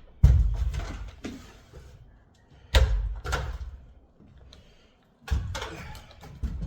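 A ladder being moved and set in place: four heavy knocks and clatters spread over several seconds, each dying away quickly.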